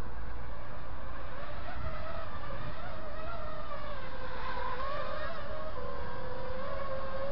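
Brushless motors of an Eachine V-tail 210 FPV quadcopter whining in flight, the pitch dipping and rising as the throttle changes.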